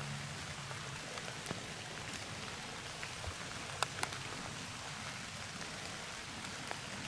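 Steady rain falling through the woods onto dead leaves, an even hiss with a couple of sharp drop strikes close by about four seconds in.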